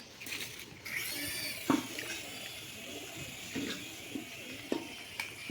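Toy helicopter's small electric rotor motor whirring with a high whine that rises in pitch about a second in. A sharp knock comes soon after, and another near the end.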